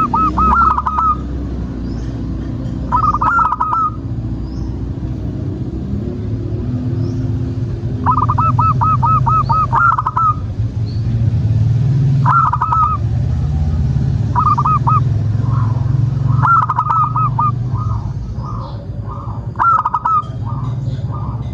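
Zebra doves cooing: about six bursts of quick, bubbling, trilled coos every few seconds, with a run of softer separate notes near the end. A steady low rumble runs underneath.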